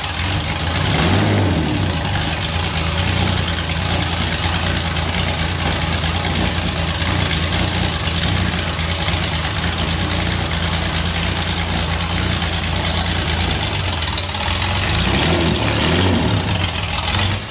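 Porsche 906 race car's engine running just after its first start in many years, idling steadily with brief blips of the throttle about a second in and again near the end, then dying away at the very end.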